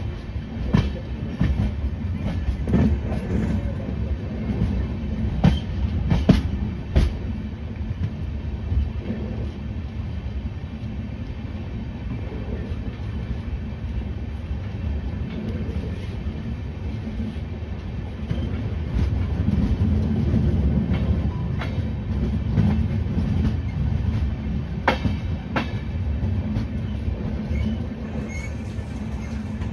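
Train ride heard from on board a passenger coach: a steady low rumble of the moving train, with sharp clacks of wheels over rail joints several times in the first seven seconds and twice more about 25 seconds in.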